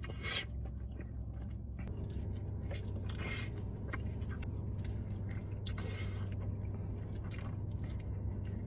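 Close-miked eating: wet, squishy chewing and biting of fast food, with scattered small clicks over a steady low hum.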